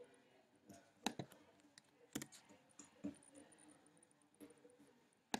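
Faint, scattered clicks of a computer mouse and keyboard, about half a dozen, the sharpest about a second in and just before the end.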